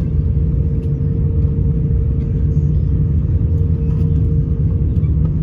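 Airbus A350 cabin noise: a steady, loud rumble of the Rolls-Royce Trent XWB engines and airframe heard inside the cabin, with a constant droning hum throughout.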